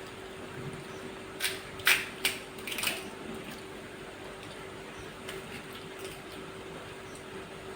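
Crisp fuchka (pani puri) shells crunching, four or five short sharp cracks close together, over a steady background hum.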